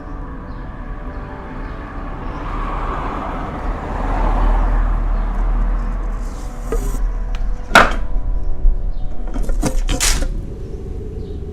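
Blizzard wind blowing, swelling into a stronger gust in the first half. A sharp crack comes about two-thirds of the way in, followed by a short cluster of cracks a couple of seconds later.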